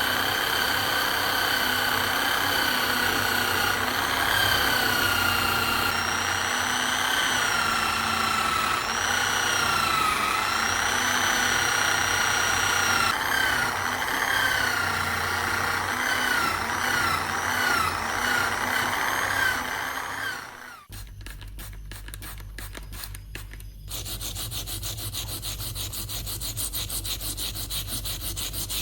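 A small power tool's motor whines, its pitch sagging and recovering again and again as the work is pressed against it, then cuts off suddenly about two-thirds of the way through. After a brief scratchy pause, steady rubbing strokes follow, as of sanding by hand.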